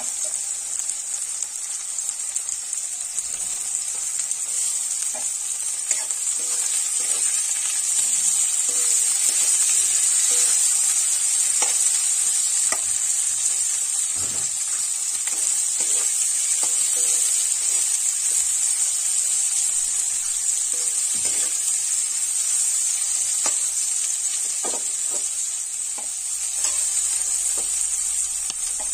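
Sliced onions and green capsicum frying in oil in a metal kadai, a steady high sizzle. A steel ladle scrapes and knocks against the pan now and then as the vegetables are stirred.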